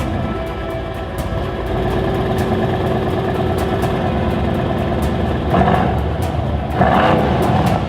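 Car engine running steadily, then louder surges from about five and a half seconds in.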